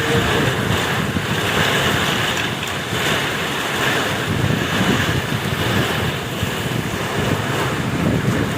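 Strong gusting wind and heavy rain of a Kalbaisakhi (nor'wester) thunderstorm, with the wind buffeting the microphone in a steady, loud rush.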